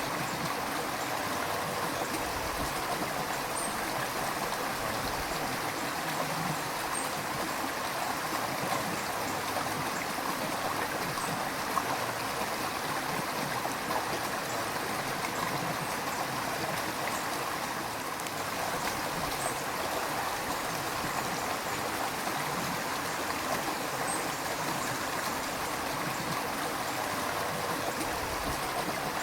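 River water flowing: a steady, even rush with a light burble.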